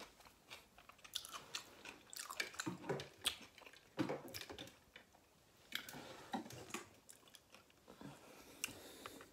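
A person chewing a mouthful of food with the mouth closed: a run of small wet smacks and clicks, easing off briefly about halfway.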